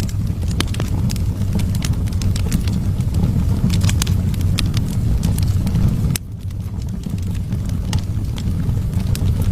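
Wood fire burning: a steady low rumble of flames with frequent sharp crackles and pops of burning wood. The level dips briefly about six seconds in.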